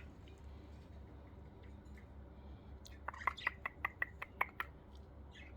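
Budgies pecking at their seed, a quick run of about ten light, sharp clicks around three seconds in, over a faint low hum.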